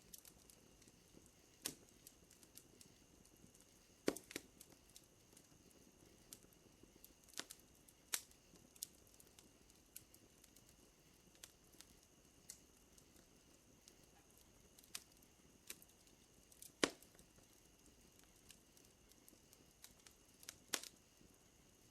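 Wood fire crackling with irregular sharp pops and snaps, the loudest about four and seventeen seconds in, over a steady high-pitched drone of night insects.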